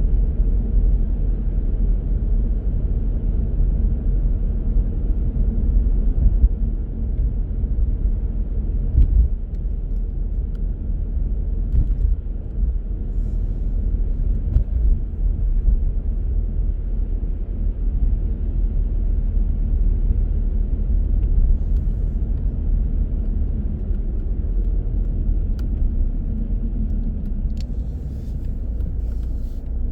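Steady low rumble of a car on the move, engine and tyre noise on the road, heard from inside the car.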